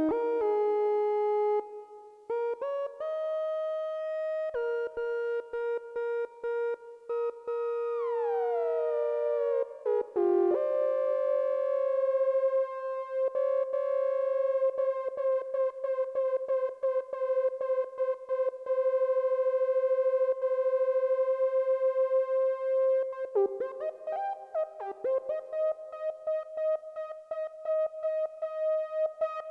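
Behringer Odyssey analog synthesizer playing a slow lead line: a few held notes, a falling pitch glide about eight seconds in, then one long note held for about twelve seconds before quicker notes move the melody on near the end.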